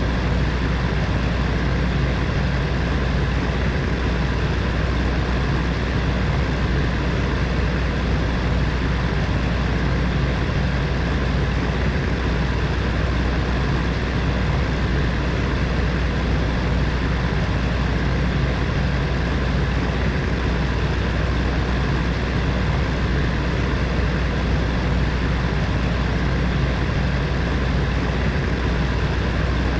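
Heater fan running steadily: an even rush of air with a low hum underneath.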